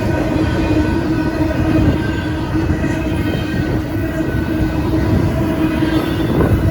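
Union Pacific freight train passing close by: a loud, steady heavy rumble with a steady droning tone over it.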